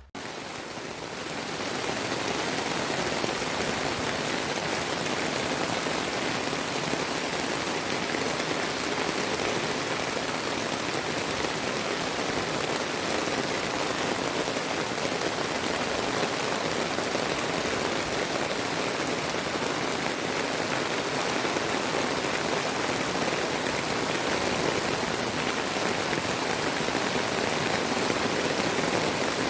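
Heavy rain pouring down steadily in an even, dense hiss.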